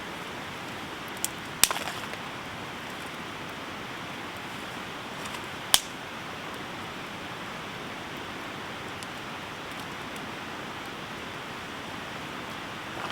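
Steady hiss of heavy rain falling, with a few sharp pops from a campfire, the loudest near six seconds in.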